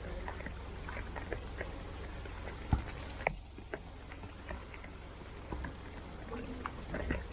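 Rain pattering, with many small scattered ticks and one sharp thud nearly three seconds in.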